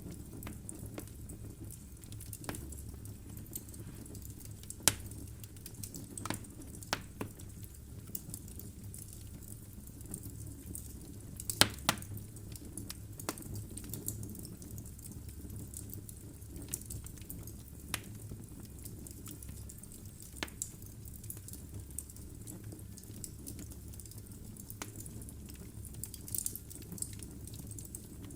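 Wood fire burning in a fireplace: a steady low rumble of flames with irregular sharp crackles and pops from the burning logs, the loudest pop about five seconds in and a quick cluster of pops near the middle.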